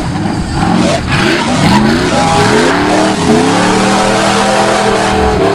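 Off-road 4x4 competition vehicle's engine revving hard in a series of rising surges, then holding high revs for about two seconds before easing off near the end.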